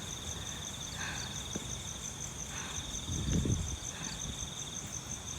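Strong wind buffeting the microphone in a low rumble, with a heavier gust about three seconds in, over night insects trilling steadily in two high, pulsing tones.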